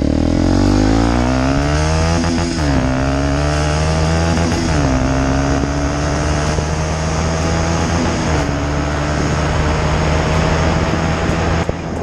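WRX 125 motorcycle with a CRD exhaust accelerating hard. The engine note climbs, drops sharply as it shifts up a gear, climbs again and shifts once more, then holds steady at cruising revs.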